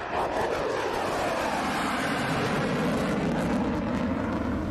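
Jet aircraft engines running: a steady, even rushing noise.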